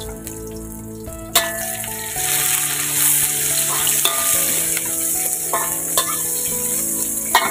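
Garlic, ginger, lemongrass and pounded spices frying in hot oil in a wok. The sizzling jumps up about a second and a half in as a metal slotted spatula starts stirring, with sharp clinks of the spatula against the wok, one near the end.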